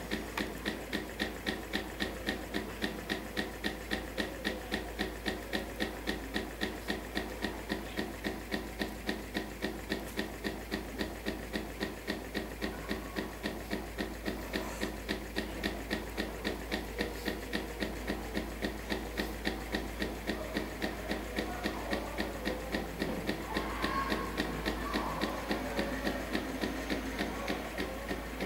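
Homemade test tube Stirling engine running steadily, its moving parts ticking evenly at about three strokes a second.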